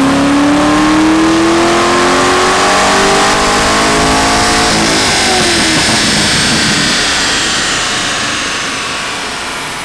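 2013 Corvette 427's 7.0-litre LS7 V8 at full throttle on a chassis dyno, its pitch climbing steadily through the gears' rev range. About five seconds in the throttle closes and the engine winds down, its pitch falling as it coasts to a stop.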